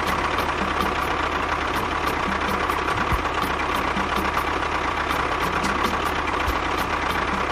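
A motor running steadily, with a steady whine and a faint, even ticking.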